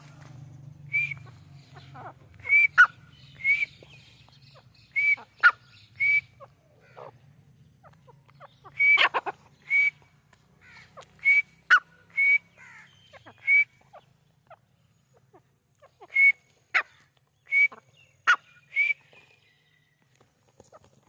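Francolin (teetar) calling: a long series of short, high whistled notes, each ending in a quick upward hook, coming about once or twice a second with a few sharper clicks among them. The calls stop a couple of seconds before the end.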